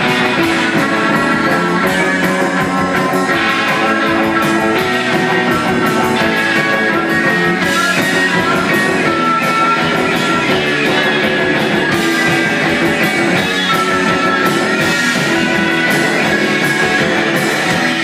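Rock band playing, with electric guitar over a steady drum beat.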